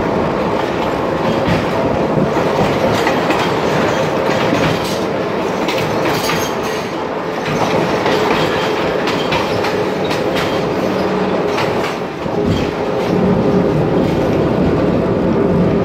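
Train running along the track, heard from on board: a steady rumble and rush with the clickety-clack of the wheels over the rail joints.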